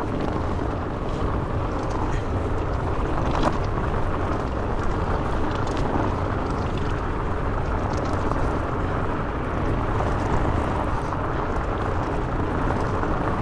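Steady rush of wind on the microphone over the low rumble of a fat bike's 4.8-inch Maxxis Minion tyres rolling fast, with a single click about three and a half seconds in.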